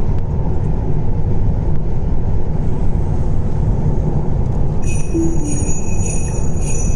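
Steady low rumble of road and tyre noise inside a moving car's cabin. About five seconds in, a high, pulsing chime of several steady tones joins it.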